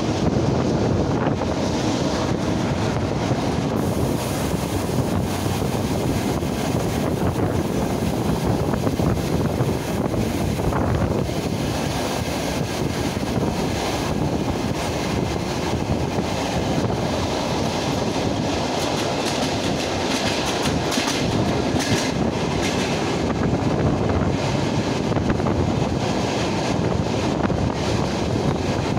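Running noise of an electric commuter train heard from on board: a steady rumble of wheels on the rails, with a quick run of clicks from the rail joints a little past twenty seconds in.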